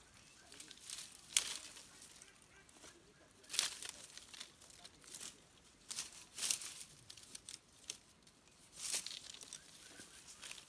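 Irregular rustling and crinkling in about six short, uneven bursts.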